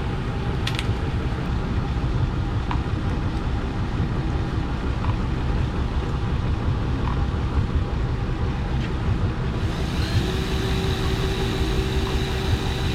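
A boat's engine idling with a steady low rumble. About ten seconds in, a steady whine joins it.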